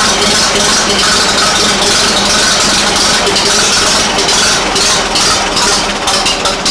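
1940 Fordson N tractor's four-cylinder engine running steadily.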